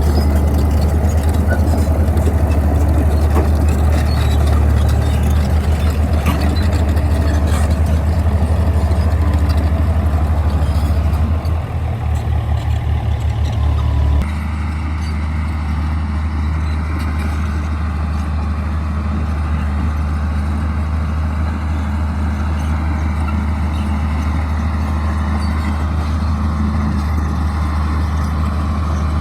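Crawler bulldozer's diesel engine running under work, a steady low drone. Shortly before halfway it throbs, then drops abruptly to a slightly quieter, even drone.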